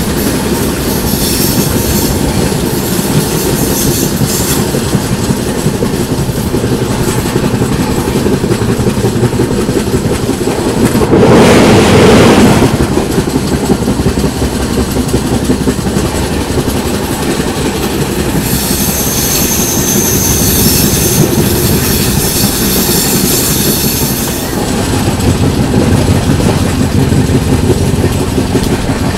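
Konark Express passenger coaches running along the track, heard from on board: a steady rumble with the clickety-clack of wheels over the rails. High-pitched wheel squeal rises near the start and again about two-thirds of the way through, and a brief louder rush swells up about 11 seconds in.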